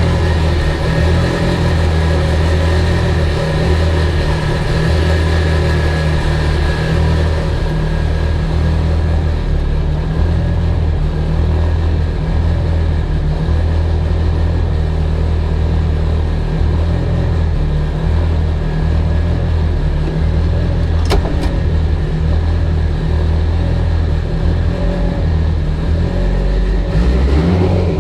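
Mitsubishi Evo 8's built, turbocharged 2.0-litre four-cylinder engine running at a steady speed. There is a single sharp click about 21 seconds in, and near the end the engine starts to rev up.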